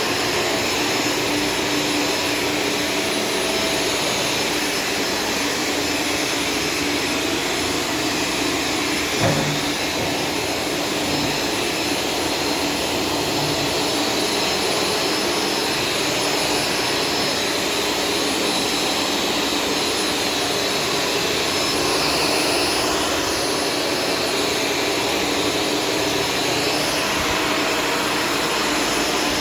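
Shark Stratos vacuum cleaner running steadily, with a brief knock about nine seconds in.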